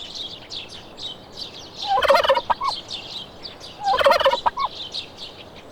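Turkey gobbling twice, about two seconds apart, each gobble a quick rattling burst of notes. Small birds chirp steadily in the background.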